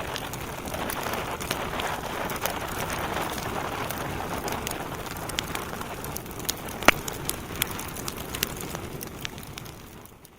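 Wood fire burning in a fireplace: a steady hiss with frequent sharp crackles and one loud pop about seven seconds in, fading out near the end.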